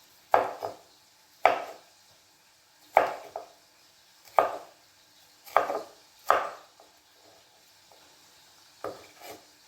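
Knife slicing a bell pepper, with slow, irregular strikes about once a second, several followed by a lighter second tap.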